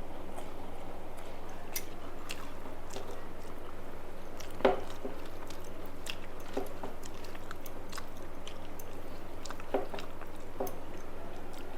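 A person eating at close range: chewing and mouth sounds with many small clicks, and a louder crunchy bite about halfway through and another near the end. A steady low hum runs underneath.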